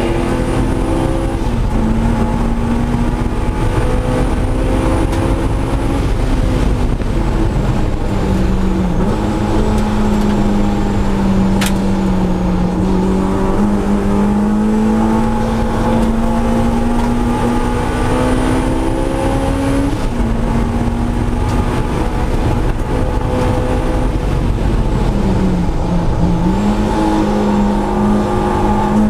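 Supercharged Honda S2000's four-cylinder engine running hard from inside the cabin, its pitch climbing with revs and dropping sharply at each shift or lift, several times over. A faint high whine rises and falls along with the revs, and a single sharp click is heard about twelve seconds in.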